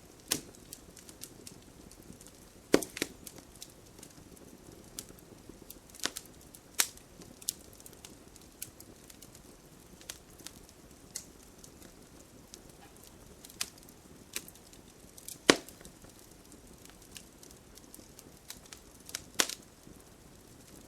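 Wood campfire crackling: sharp pops and snaps at irregular intervals, a handful of them much louder, over a soft steady hiss of the burning wood.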